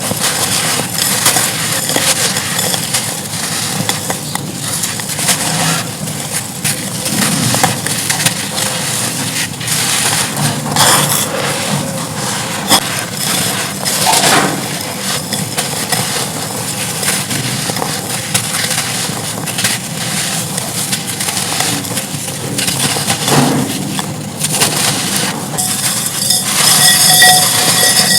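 Dry red dirt and clay-pot chunks being crumbled and crushed: a steady run of dense crunches and crackles, changing to a brighter texture near the end.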